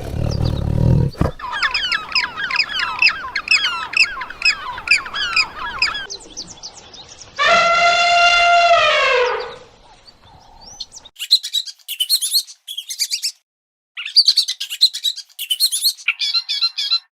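A run of separate animal-call clips. The end of a low roar gives way to rapid, repeated bird chirping, then one long pitched call that drops in pitch at its end, then short bursts of high chirps broken by silent gaps.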